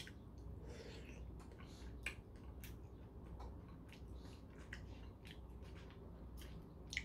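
Faint chewing and wet mouth clicks while eating a piece of tomato, with scattered light clicks and a sharper click about two seconds in.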